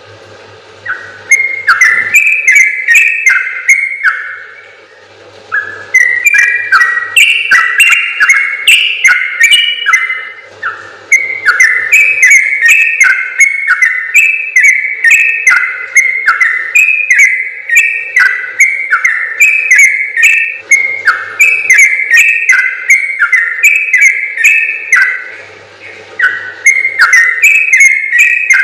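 Yellow-vented bulbul (trucukan) singing long, fast runs of bubbly whistled notes, phrase after phrase with barely a break. It pauses briefly twice.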